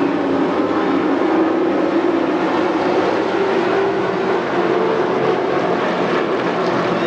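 Thunder Truck race truck engines running at speed on the oval, a loud steady drone whose pitch shifts slowly up and down.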